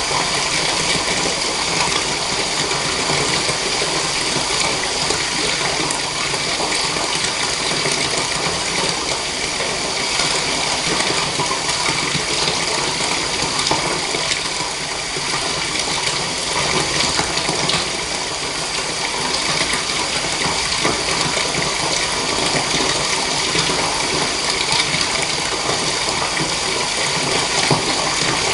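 Water running steadily from a tap into a bath, a constant gushing splash.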